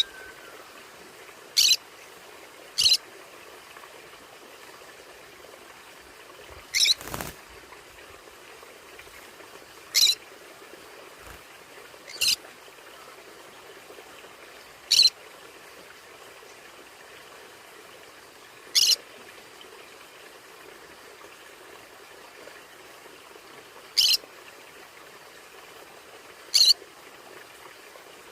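Conure parrot giving short, sharp, high-pitched calls, about ten of them spaced a few seconds apart, over a steady faint hiss.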